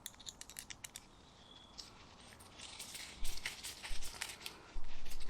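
Hands working on small parts: a quick run of light clicks, then rustling and scraping that gets louder towards the end.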